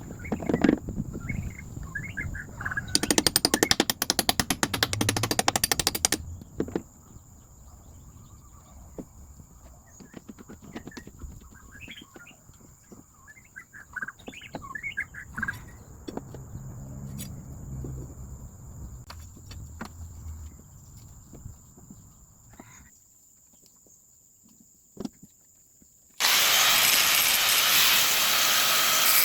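Metalworking sounds: a burst of rapid rattling clatter about three seconds in, then scattered light clinks with bird chirps, and near the end a power tool starts abruptly and runs loudly.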